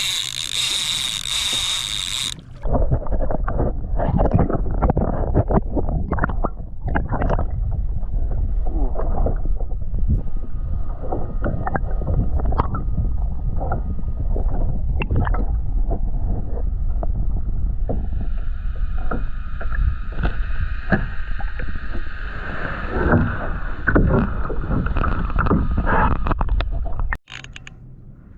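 Water splashing and knocking against a kayak hull during a fight with a hooked dorado, under a heavy low rumble, with many short sharp knocks. A steady higher-pitched whine joins for several seconds in the last third, and the sound cuts off suddenly near the end.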